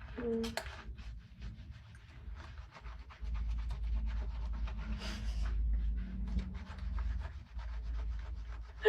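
Dishes being washed by hand: rubbing and scrubbing with many small clinks and scrapes. A low rumble sets in about three seconds in.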